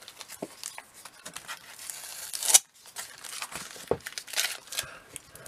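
Crinkling and rustling of comic books and their packaging as they are handled one after another, with a louder rasping swell that cuts off sharply about two and a half seconds in.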